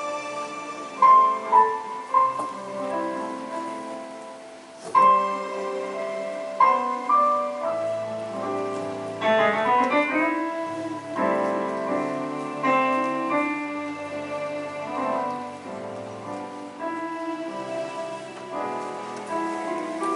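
Piano-style keyboard playing slow, sustained chords and melody notes, with a quick run of notes about nine seconds in.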